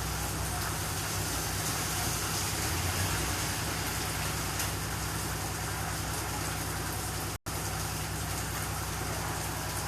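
Steady rain hiss with a low, even hum underneath. The sound cuts out completely for an instant about seven and a half seconds in.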